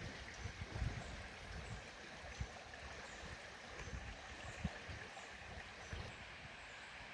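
Running water of a stream, a steady rushing sound with irregular soft low thumps.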